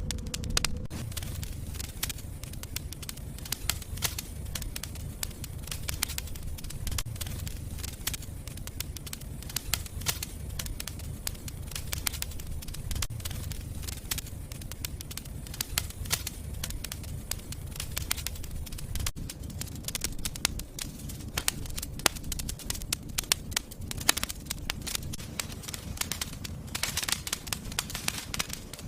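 Fire burning in a fireplace: steady irregular crackling over a low rumble, with a denser run of crackles near the end.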